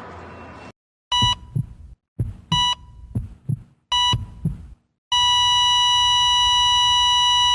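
Hospital heart monitor sound effect: three beeps about a second and a half apart, each followed by heartbeat thumps, then a steady unbroken tone about five seconds in. The flatline signals cardiac arrest.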